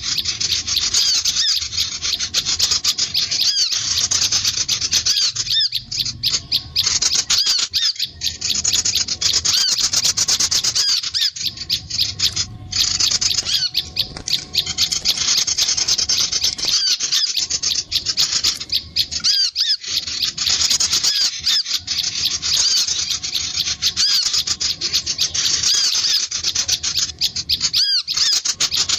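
Sunbird and prinia calls: fast, dense chattering of high, thin notes, running almost without pause apart from a few brief breaks.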